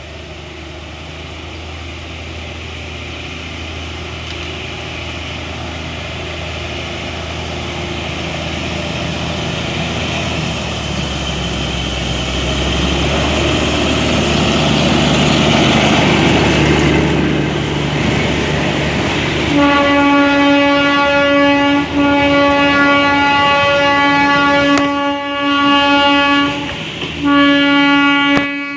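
Darjeeling Himalayan Railway toy train running and rumbling, growing steadily louder, then its horn sounding in several long blasts with short breaks from about twenty seconds in.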